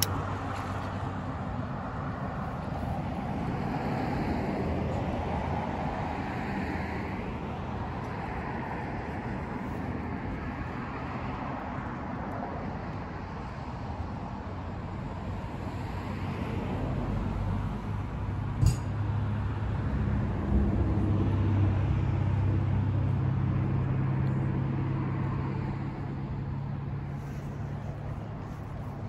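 Motor vehicle running steadily, a low hum with road noise, growing louder in the second half, with a single sharp click about two-thirds of the way through.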